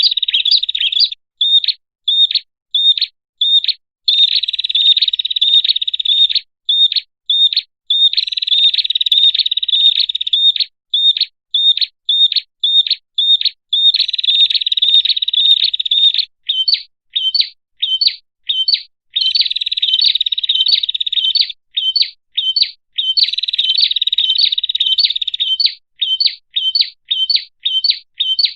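Prenjak (prinia) calls from a bird-lure recording. They come as fast runs of high, clear chirps alternating with strings of separate single chirps, about three to four a second, with clean cut-off gaps between phrases.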